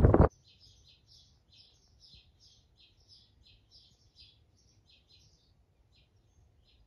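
A small bird chirping, a quiet, quick series of short high chirps about three a second, thinning out near the end. It follows a brief burst of wind on the microphone that cuts off a moment in.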